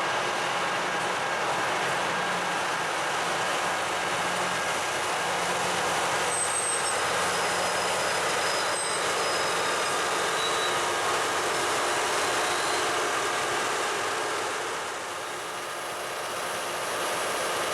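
LORAM rail grinder train moving slowly along the track while deadheading, not grinding: a steady mix of diesel engine and rail-wheel noise. It eases off slightly about fifteen seconds in.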